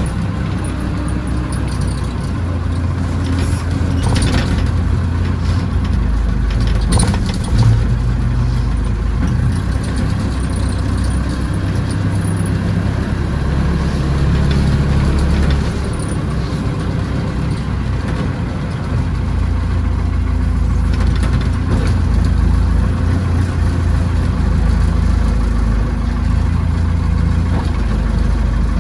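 Tractor backhoe engine running steadily, its pitch and load rising and falling every few seconds as the machine works, with a couple of short metallic knocks in the first third.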